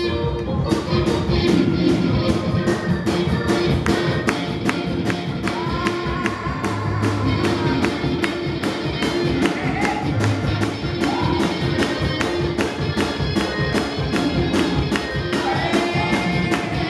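Up-tempo gospel praise-break music with drums and tambourine-like percussion keeping a fast, steady beat under sustained pitched tones.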